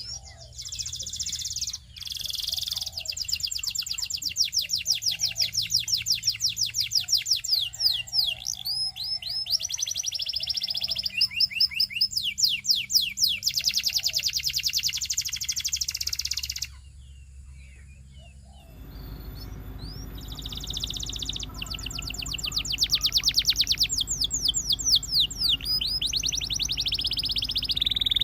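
Domestic canary singing long rapid trills and rolls of fast-repeated high notes. The song stops for about two seconds a little past the middle, then resumes over a steady low hum.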